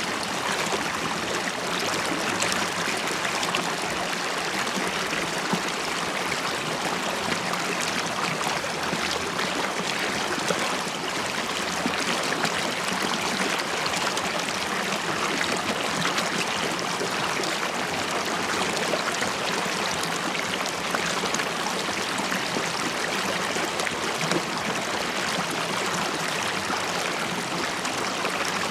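River water flowing and babbling steadily over stones, an even rushing and bubbling with many small splashes.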